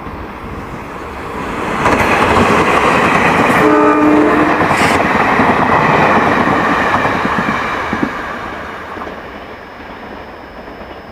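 A train passing at speed, the rumble and rattle of its wheels on the rails building up, holding for several seconds, then fading away. A short horn blast sounds about four seconds in.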